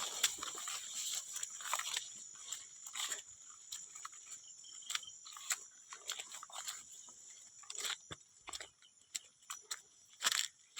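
An animal chewing and crunching food: irregular crisp bites and clicks throughout.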